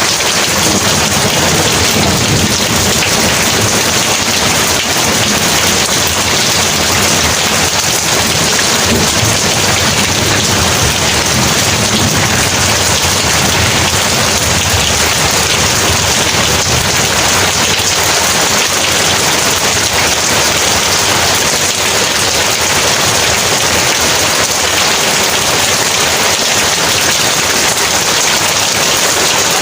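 Heavy rain pouring steadily, a dense even hiss, with a low rumble of thunder through roughly the first half.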